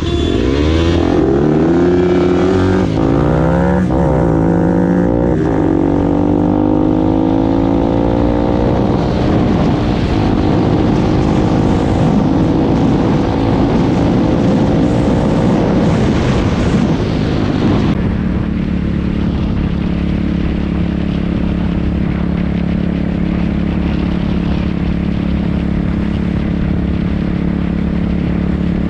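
Dirt bike engine under way, heard up close. The pitch rises and falls repeatedly through the gears, climbs gradually, then drops about two-thirds through and holds a steady lower note.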